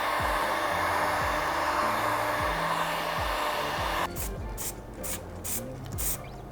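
Aerosol spray paint can hissing in one long continuous spray, which cuts off about four seconds in and is followed by several short spray bursts.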